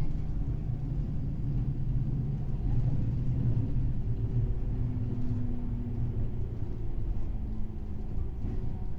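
JNR 103-series electric train running, heard from inside the motor car: a steady low rumble of wheels on rail with a faint hum from its MT55 traction motors.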